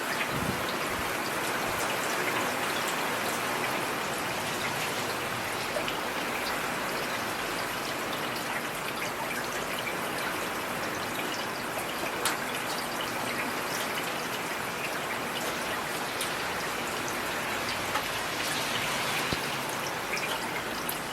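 Heavy rain falling steadily, with scattered sharper drop impacts.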